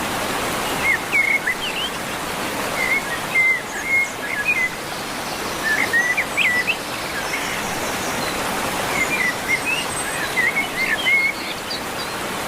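River water rushing steadily, with a small bird chirping in short bursts of quick, curling notes several times over it.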